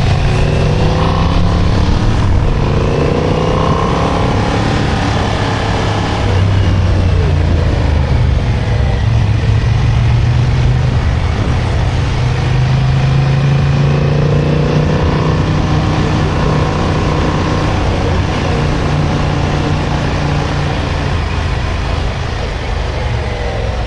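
Motorcycle engine under way, its pitch rising and falling again and again as it accelerates and backs off through curves.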